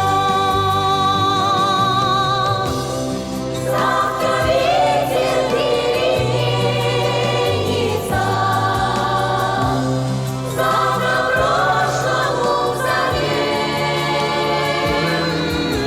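Music with wordless choral singing: sustained, wavering voices held over steady bass chords that change every second or two.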